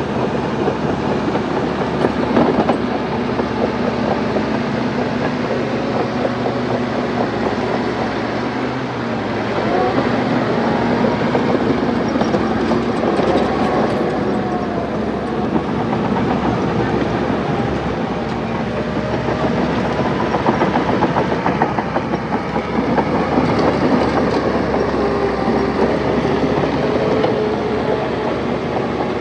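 Crawler bulldozer working: the diesel engine runs steadily under load while its steel tracks clank and rattle continuously.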